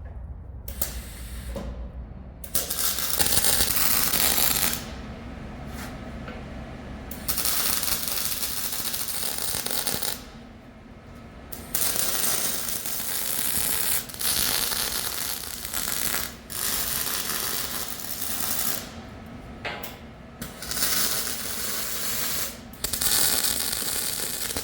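MIG welding of steel in a series of short runs, each a crackling hiss lasting about one and a half to three seconds, with brief pauses between them: stitch or partial welds rather than one continuous bead.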